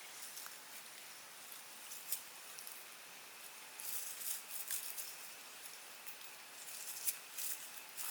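Scattered light rustles and crackles over a steady high hiss, with a cluster of them about halfway through and two sharper ones near the end.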